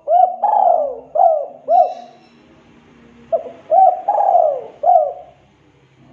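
Spotted dove (tekukur) cooing: two phrases of about five arched coos each, the second phrase starting about three seconds in.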